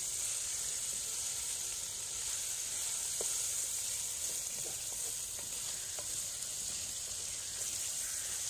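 Chicken karahi sizzling steadily in a metal wok over a wood fire while it is stirred with a wooden spoon, with a few faint clicks along the way.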